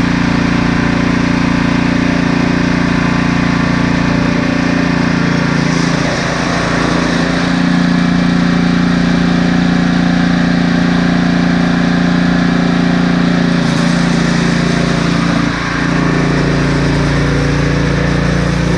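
Husqvarna snowblower's small petrol engine running steadily, its pitch dipping briefly twice, about six seconds in and again near sixteen seconds.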